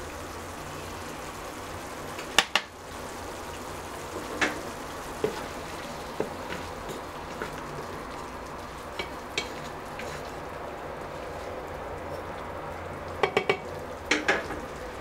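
Chicken livers sizzling in oil in a frying pan while being stirred, with sharp knocks of the utensils against the pan now and then: a pair about two and a half seconds in, a few single ones through the middle, and a quick cluster near the end.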